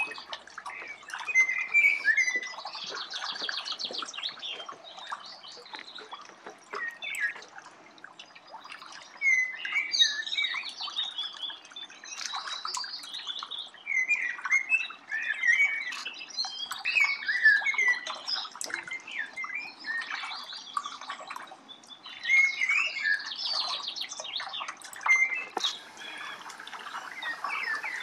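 Small birds chirping and calling again and again in quick clusters every few seconds, with short buzzy trills among the chirps.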